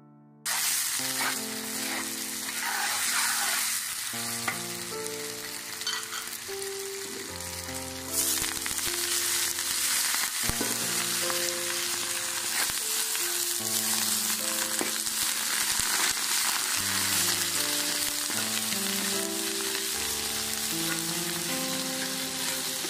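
Diced potatoes sizzling as they fry in oil in a wok, stirred and turned with a silicone spatula; the sizzling grows louder about eight seconds in. Soft piano-like background music plays over it.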